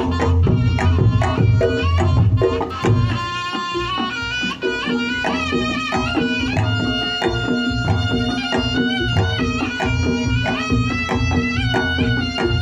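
Reog Ponorogo gamelan ensemble playing the jathilan accompaniment: a bending, wailing reed melody over quick kendang drumming and steady gong-chime tones.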